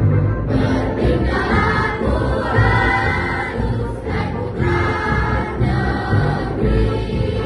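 A junior high school choir singing together, with an accompaniment that pulses strongly in the low end beneath the voices.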